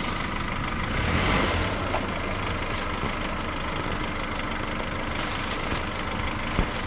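A vehicle engine running steadily at idle, rising slightly for a moment about a second in.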